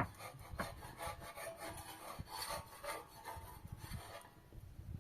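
Repeated scraping or rubbing strokes that stop about four seconds in.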